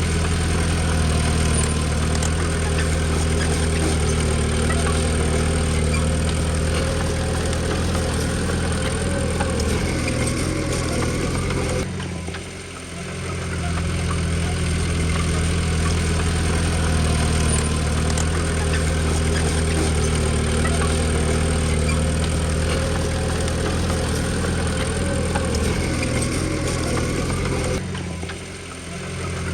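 Diesel engine of a Komatsu D20P crawler bulldozer running steadily. It drops away briefly twice, about twelve seconds in and again near the end, then comes back.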